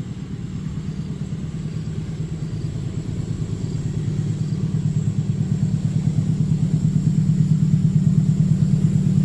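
Low, steady diesel locomotive engine sound with a fast pulsing beat, growing steadily louder as the train approaches.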